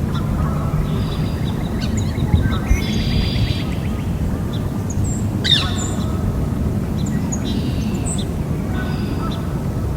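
Birds chirping and calling in short scattered calls, with a rapid trill about three seconds in, over a steady low background rumble.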